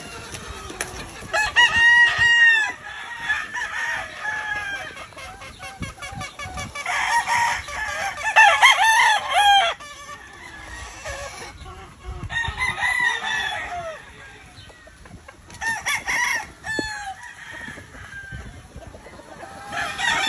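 Gamefowl roosters crowing again and again, the crows sometimes overlapping, loudest about eight seconds in, with softer chicken calls in between.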